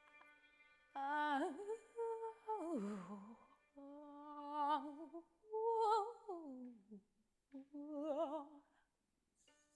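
A woman's voice singing wordless phrases with a wide vibrato, sliding down in pitch and dropping low about three seconds in, in short phrases separated by pauses. A held note fades out at the start.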